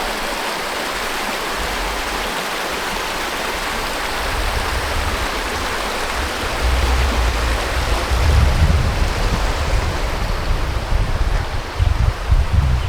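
Steady rush of running water, like a stream or waterfall. From about halfway through, wind gusts buffet the microphone with a low rumble.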